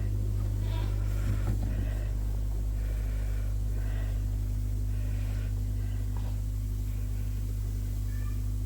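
Steady low hum throughout, with a few faint short animal calls from the pen, two of them near the end.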